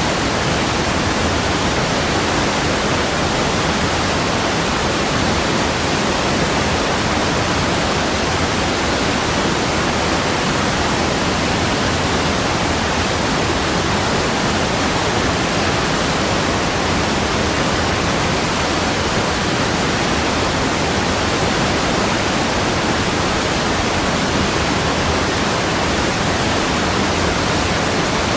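A steady, unchanging rush of water, an even hiss spread across low and high pitches with no single drops, splashes or surges standing out.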